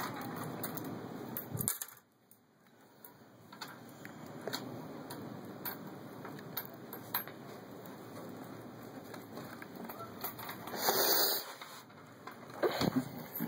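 Faint scattered clicks and light taps over a low steady hiss, with a brief louder rustle about eleven seconds in.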